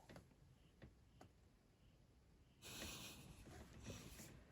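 Near silence, with a few faint clicks in the first half and a faint, breathy hiss from a little past halfway.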